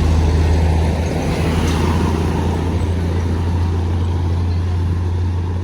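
Heavy diesel vehicle engine running with a steady low drone, amid road traffic noise.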